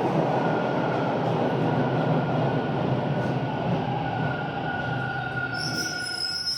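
A TTC train running with a steady, loud rumble and a faint steady whine. Near the end a high-pitched wheel squeal sets in.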